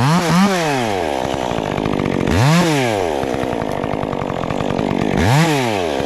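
Stihl MS 400 C two-stroke chainsaw idling, its throttle blipped three times so that the engine briefly revs up and falls back: at the start, about two and a half seconds in, and near the end.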